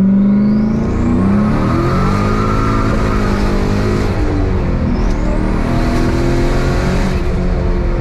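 Turbocharged 1998 Chevrolet Camaro SS V8 pulling hard under acceleration, its large 78 mm turbo whistling up in pitch as it spools, twice: near the start and again about five seconds in.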